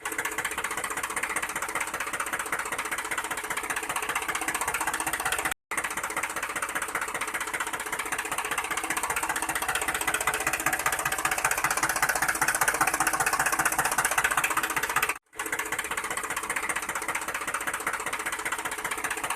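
A small motor running steadily with a fast, even rattle, cutting out for an instant twice.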